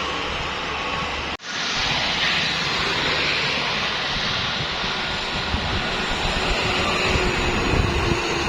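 Trucks on the road: a steady rush of engine and tyre noise, with a brief dropout about a second and a half in.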